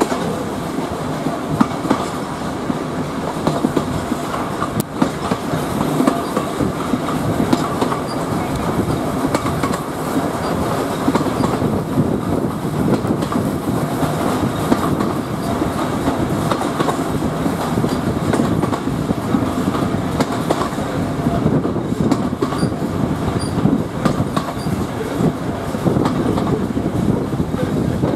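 Heritage train's wheels running on the track, heard from an open coach window: a steady rumble and rush of air with frequent clattering over rail joints.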